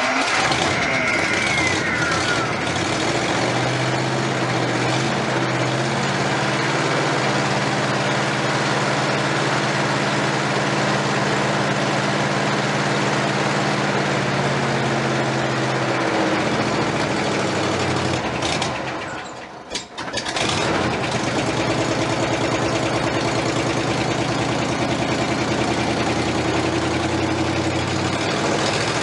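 1956 Oldsmobile's V8 running just after a cold start at 36 °F, after two weeks of sitting, idling steadily. About two-thirds of the way through the sound drops away for about a second, then the engine is heard idling again at a lower pitch.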